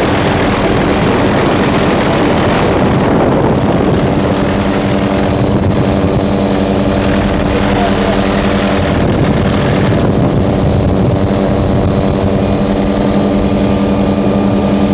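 An engine running steadily, an even droning hum over a dense rushing noise.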